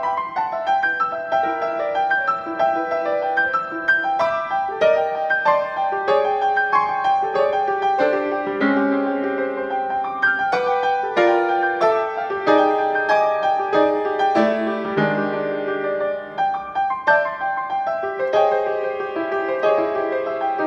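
Solo piano playing a piece of single-note melody over chords, each note struck and then fading.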